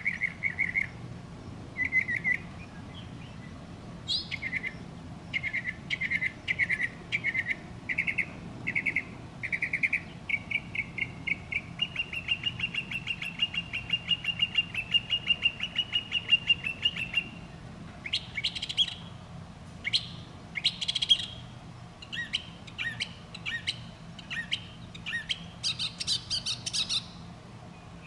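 A bird chirping and singing: a series of short repeated chirps, then a rapid trill lasting about five seconds from roughly twelve seconds in, followed by varied, higher sharp notes.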